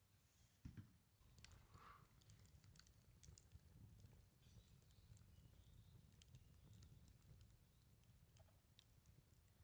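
Faint, scattered small clicks and ticks over a low rumble.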